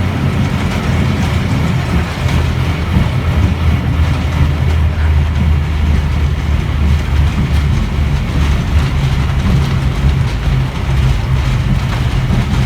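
Iyotetsu Botchan Ressha, a diesel-powered replica steam train, running along the track, heard as a loud, steady low rumble.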